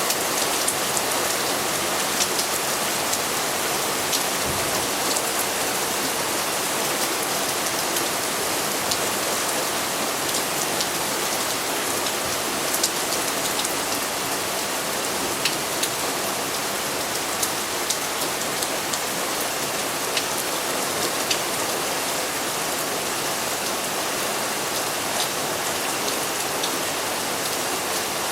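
Heavy thunderstorm rain falling steadily, with many sharp individual drop hits close by.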